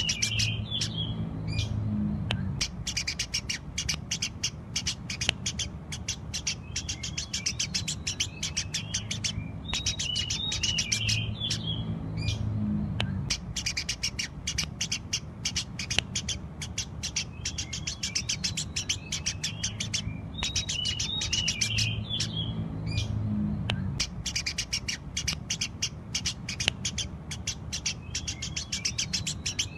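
Eurasian tree sparrows chirping rapidly and continuously, a dense run of sharp high chirps, with the same stretch of calls coming round about every ten seconds, as in a looped recording. A steady low hum runs underneath.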